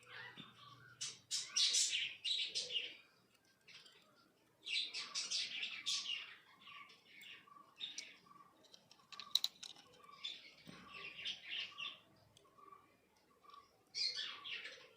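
Birds chirping and twittering in repeated bursts, with one short note repeated about twice a second underneath.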